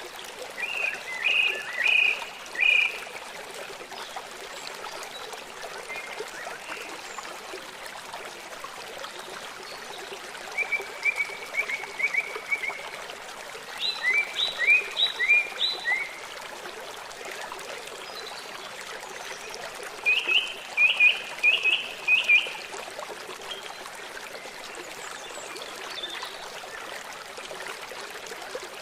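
River water running steadily, with a songbird singing short phrases of rapid chirped notes four times over it.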